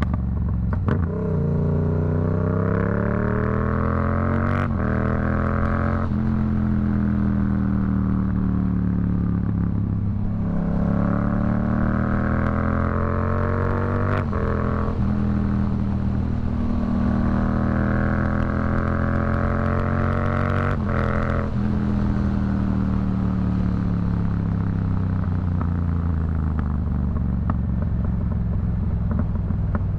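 Yamaha MT-07's 689 cc CP2 parallel-twin running through a Black Widow aftermarket exhaust while riding. The engine pulls hard three times, its pitch climbing and then breaking off sharply at a shift or throttle roll-off, and falls away as the bike slows in between and near the end.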